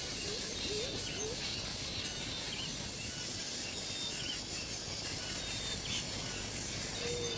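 Faint bird calls, a few short rising chirps, over a steady background hiss.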